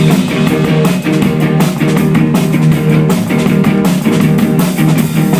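Live rock band playing loud: electric guitars over a steady drum beat.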